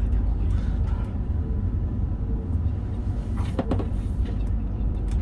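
Meitetsu Panorama Super limited express train running at speed, a steady low rumble with a short cluster of sharp clicks a little over three seconds in, typical of wheels passing over rail joints.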